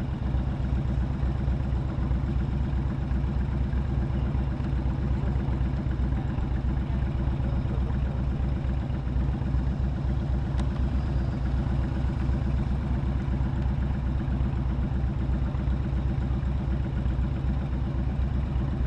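Motorcycle engine running steadily at low revs, with no rise or fall in pitch.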